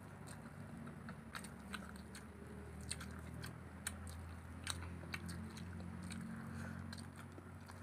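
Close-up mouth sounds of rice and egg curry being chewed: irregular sharp wet clicks and smacks, a few each second, over a low steady hum.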